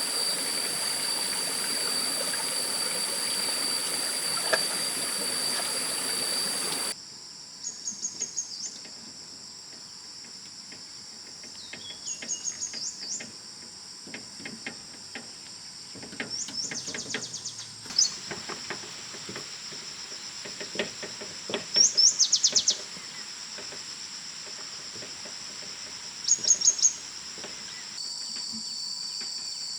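Outdoor nature sound: a steady high-pitched insect drone, with a bird giving short, rapid trilled calls five times, the loudest about two-thirds of the way through. The background changes abruptly twice, once early and once near the end.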